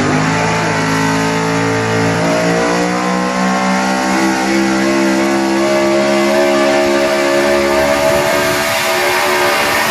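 1997 Ford diesel pickup truck's engine at full throttle pulling the weight sled, its note climbing steadily for several seconds and then holding high.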